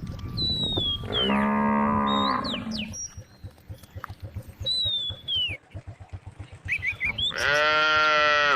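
A cow mooing twice: a long moo about a second in, and a second, louder moo near the end that carries on past it.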